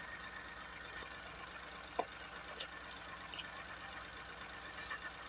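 Kei car engine idling steadily and faintly, with one short click about two seconds in.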